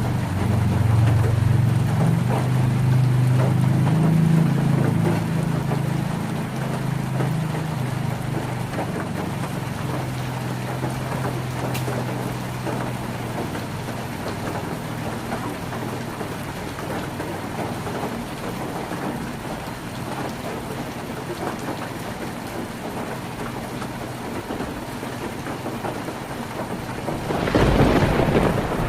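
Heavy rain drumming steadily on a tin roof. A low thunder rumble fades away over the first several seconds, and a sudden louder burst comes near the end.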